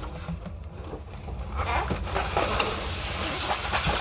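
Cardboard packaging being handled, rustling and scraping, quieter at first and getting busier and louder about a second and a half in.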